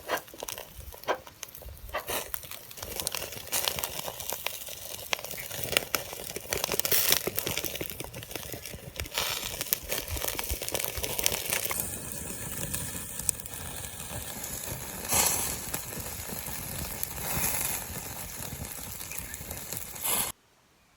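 Wood campfire crackling and popping, with chicken skewers grilling over it. The sound changes about twelve seconds in and cuts off sharply near the end.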